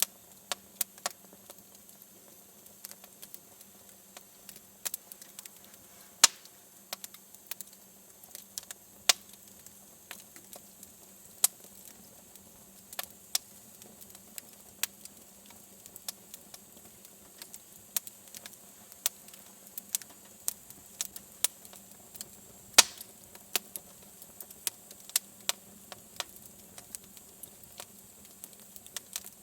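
Wood fire crackling in a fireplace: irregular sharp pops and snaps, a few much louder ones about six seconds in and again around twenty-three seconds.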